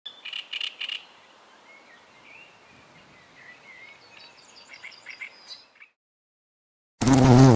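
A run of short, high chirping calls from a small animal, loudest and quickest in the first second, then fainter scattered chirps that stop suddenly. About seven seconds in, a loud, low buzzing animal call starts abruptly.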